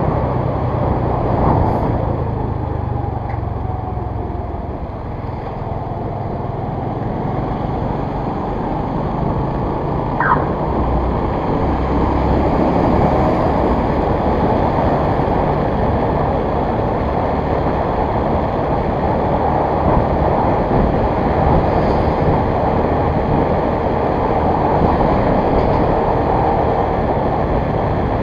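Motor vehicle running with steady road and wind noise while on the move, with one short high chirp about ten seconds in.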